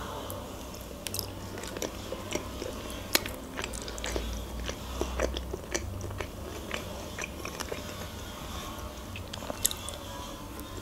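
Close-up chewing of a soft mayonnaise salad: wet mouth clicks and smacks throughout, with another forkful taken near the end.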